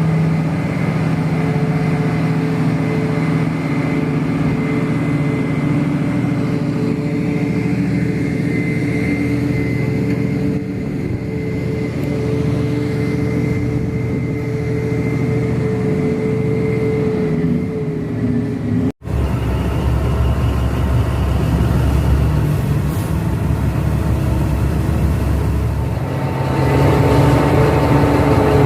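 Large mining haul truck's diesel engine running steadily. About two thirds of the way through the sound cuts abruptly and a deeper, heavier engine sound takes over.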